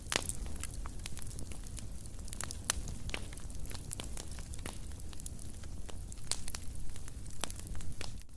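Fire crackling in a fireplace: irregular sharp pops and snaps over a low, steady rumble, with the loudest pop right at the start.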